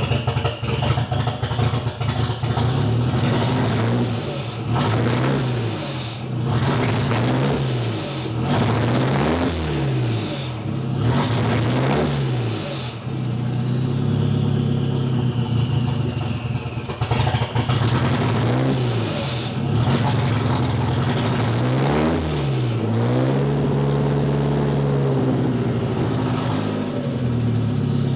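Nissan CA18DET turbocharged 1.8-litre four-cylinder running through an open downpipe, blipped up from idle and falling back again and again, several times in a row, then settling between blips. The engine has a persistent misfire that the owner says remains even when warm.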